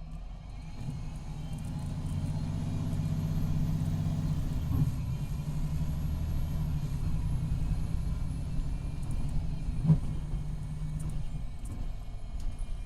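MCI D4500CT coach's Cummins ISX12 diesel and Allison B500R automatic transmission under way, the engine drone building over the first two seconds and then holding steady, with a faint high whine. Two sharp clunks, the louder about ten seconds in. The transmission is failing, in its last stages.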